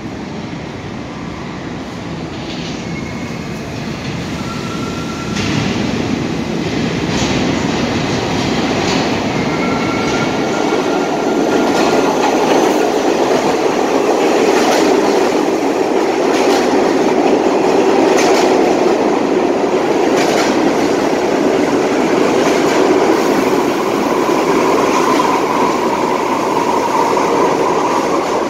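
Kawasaki R68A subway train approaching and coming into the station, its rumble growing steadily louder, with wheels clacking over rail joints and a motor howl building in the second half.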